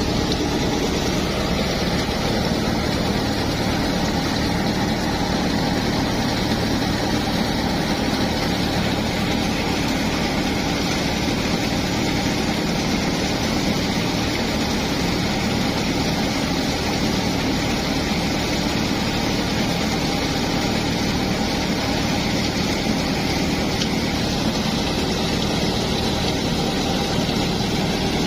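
Al-Ghazi tractor's diesel engine running steadily under load, driving a threshing machine for berseem clover seed; engine and spinning thresher make one continuous, even drone.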